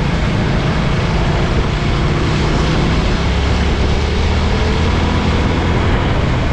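Motorcycle riding at speed on a highway: a steady engine drone low down, under a loud, even rush of wind and road noise.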